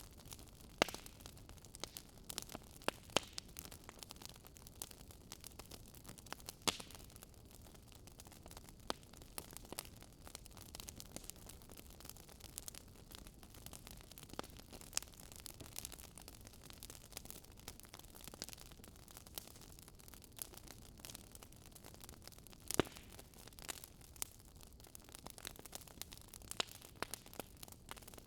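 Fire crackling in a fireplace: irregular small pops and snaps over a steady soft hiss, with a few sharper, louder snaps scattered through.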